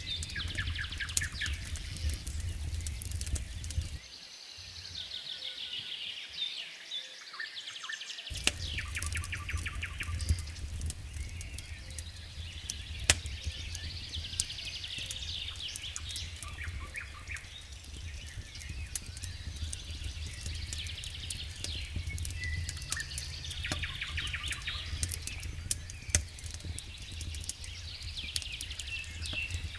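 Small birds singing in quick repeated trills, over the sharp snapping crackles of a wood campfire and a low steady rumble that briefly drops away about four seconds in.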